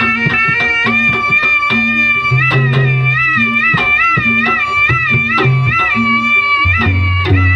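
Live traditional music: a reedy wind instrument plays a wavering, ornamented melody over drums and low held bass notes, with sharp percussive strokes throughout.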